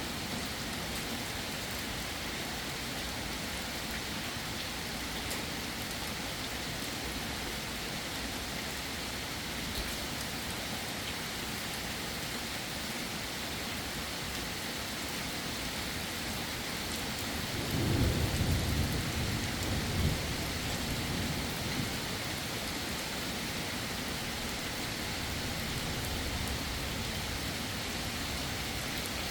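Heavy rain falling steadily, with a low roll of thunder about two-thirds of the way through that peaks twice and fades over several seconds.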